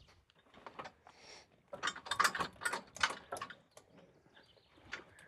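A run of sharp metal knocks and clanks from a welded steel frame being handled and set in place, densest in the middle, with a few more light clicks near the end.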